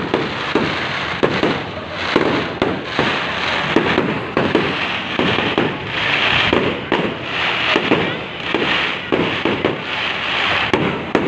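Fireworks and firecrackers going off without a break: a dense string of sharp bangs, a few each second, over a continuous crackle.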